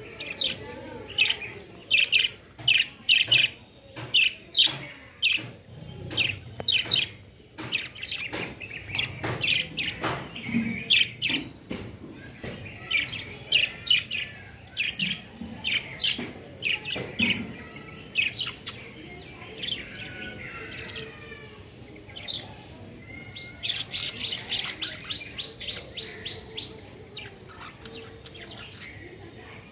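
Pet lovebirds chirping in many short, sharp calls, with a quick run of calls about two-thirds of the way through and a few clicks among them.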